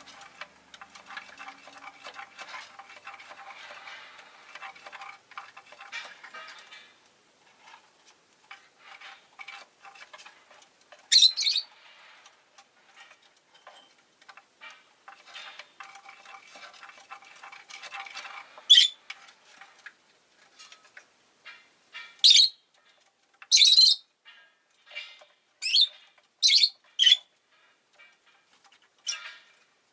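Rosy-faced lovebird calling: about eight short, sharp, high-pitched shrieks, one at a time and a few seconds apart, over softer chattering and clicking in the first several seconds.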